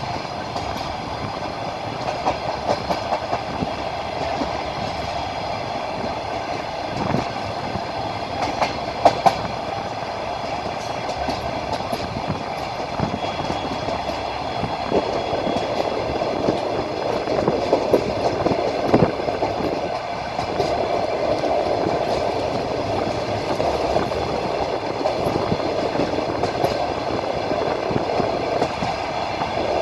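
Passenger train carriage rolling along the track, heard from inside at the window: a steady rumble of wheels on rail, with a sharp clack of the wheels now and then.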